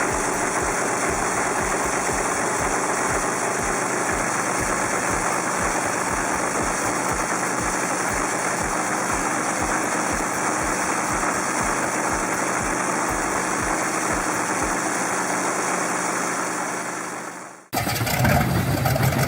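Seven-cylinder radial engine running steadily with an even pop-pop beat. Near the end it cuts off suddenly, and a louder, deeper engine sound takes over.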